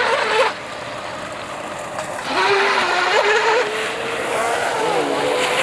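Electric RC speedboat running on the water: a motor whine that wavers in pitch with the throttle over the hiss of the hull and spray, louder from about two seconds in.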